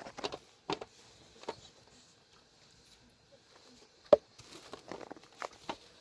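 Scattered light knocks and scuffs with faint rustling, and one sharp knock about four seconds in.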